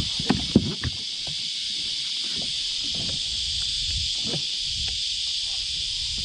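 A steady, high-pitched chorus of insects buzzing, with a few sharp knocks and clicks in the first second.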